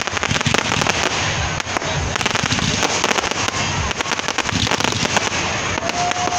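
Fireworks going off in quick succession: a dense run of many sharp cracks and pops, with no pause.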